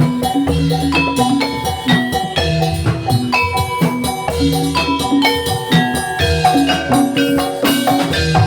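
Javanese gamelan music for a Jathilan horse dance: bronze mallet instruments strike a repeating melody over steady drum beats, loud and unbroken.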